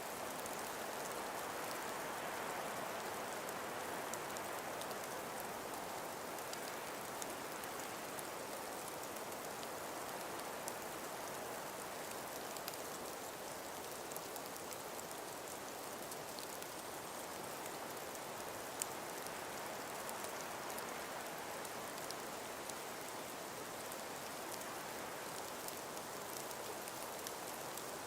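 Calm winter breeze through ice-covered forest trees: a steady hiss that slowly swells and eases, with faint scattered ticks.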